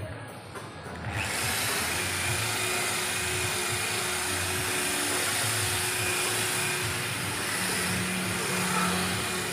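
A power tool starts about a second in and runs steadily with an even hissing noise, like a workshop air tool or sander.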